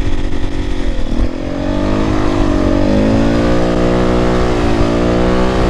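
Dirt bike engine running on the throttle. Its pitch dips about a second in, climbs back, and dips and rises again near the end, with wind rumble on the microphone.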